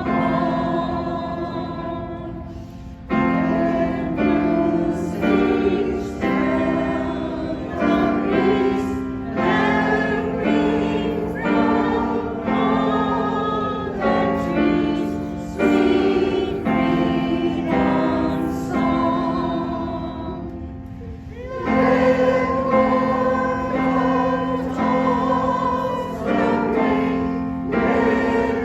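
Community choir singing a slow patriotic song in held phrases, with a short breath between phrases about two-thirds of the way through.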